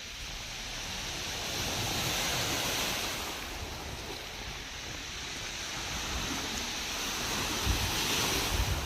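Sea waves breaking on the shore, the wash swelling twice as two waves come in, with wind buffeting the microphone near the end.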